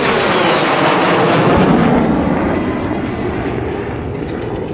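MiG-17F's afterburning Klimov VK-1F turbojet on a fast pass with the afterburner lit: a loud rushing jet noise that swells, peaks about two seconds in with a falling pitch as it goes by, then slowly fades.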